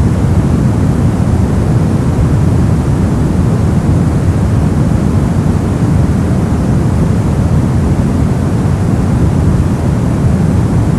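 Brown noise: a steady, even hiss weighted heavily toward the low end, a deep rumble with little treble, unchanging throughout.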